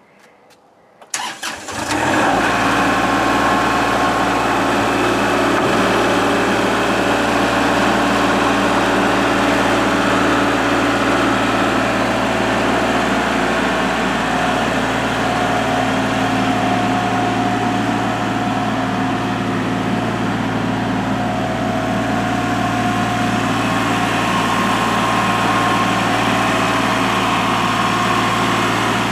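Kubota L3301 tractor's three-cylinder diesel engine starting about a second in, then running steadily.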